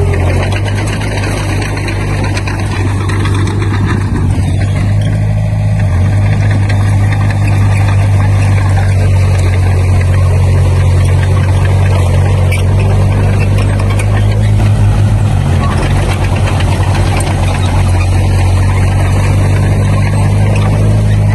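Diesel engine of heavy earthmoving equipment running steadily at a low, constant pitch, with small shifts in engine speed now and then and a broad mechanical noise over it.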